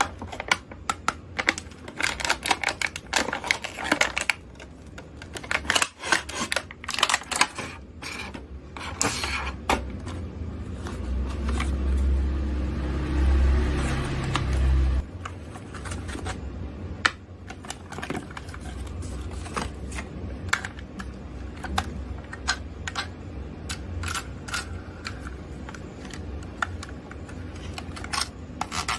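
Small plastic toys and their packaging handled on a surface: a busy run of clicks, taps and rustles, with a steady low hum for about four seconds midway.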